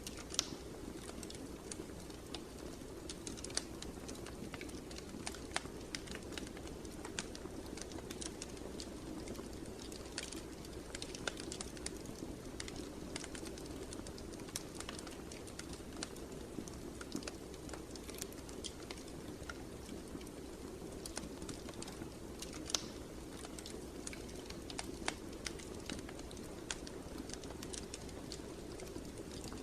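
Fire crackling in a fireplace: irregular sharp pops and snaps, several a second at times, over a steady low rush of burning.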